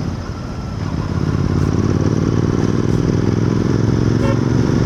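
Royal Enfield Continental GT 650's parallel-twin engine running while the motorcycle is ridden, dipping briefly at first and then building to a steady drone.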